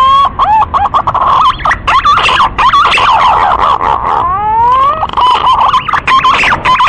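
Green pigeon (Treron) singing: a rising whistle that breaks into a run of quick, wavering whistled notes, then a second rising whistle about four seconds in, followed by another wavering run.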